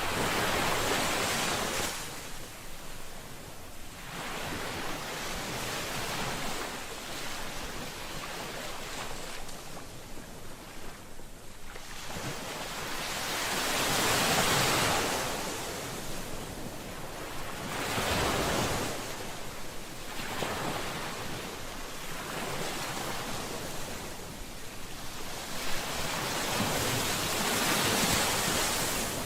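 Ocean waves breaking on a shore, a steady wash of surf that swells with each wave, with bigger breakers near the start, about halfway, and near the end.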